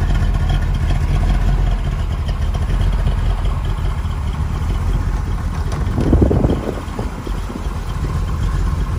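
1963 Corvette's 340 hp 327 V8 idling steadily with a low, even rumble while it is still warming up. A brief rush of noise comes about six seconds in.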